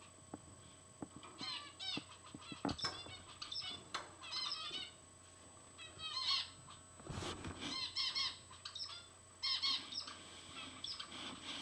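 Several caged zebra finches giving their short nasal "beep" calls in quick repeated bursts, overlapping one another. A brief thump sounds about seven seconds in.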